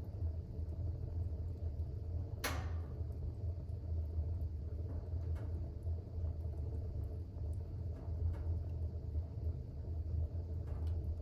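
Fire burning in a fireplace: a steady low rumble, with one sharp crackle about two and a half seconds in and a few fainter pops after it.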